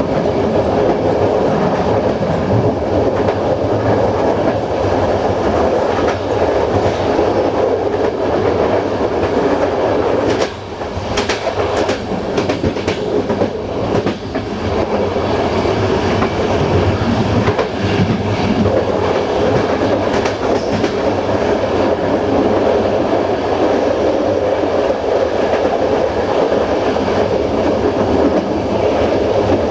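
Passenger train running at speed, wheels rolling and clattering over the rails with a steady rumble. A little after ten seconds in there is a brief run of sharper clicks and knocks as the wheels cross a set of points.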